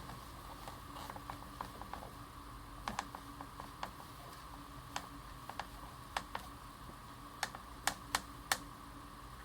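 Faint, irregular light clicks and taps, a few at a time and more frequent near the end, over a steady low electrical hum.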